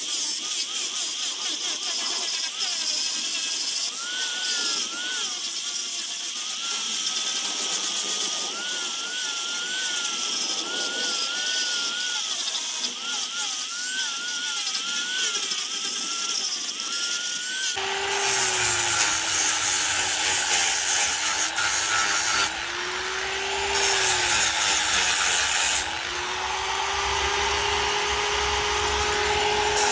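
Power tool working wood, its motor pitch dipping and rising as it is pressed into the cut. About two-thirds of the way through, the sound changes abruptly to a lower motor tone with a thin high whine above it.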